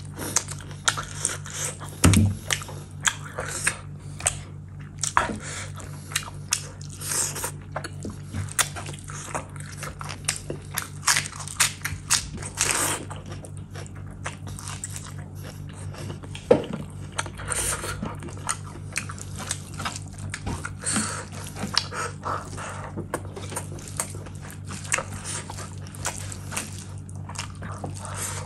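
A person eating mutton curry and rice by hand: wet chewing, lip smacking and squelching, with many short, sharp mouth clicks and smacks throughout.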